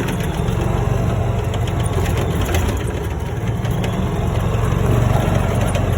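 Golf cart being driven, its engine running with a steady low drone over the rattle and rumble of the ride.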